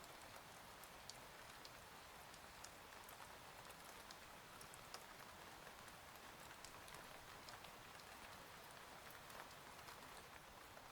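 Faint, steady rain ambience, an even patter with scattered sharp drop ticks.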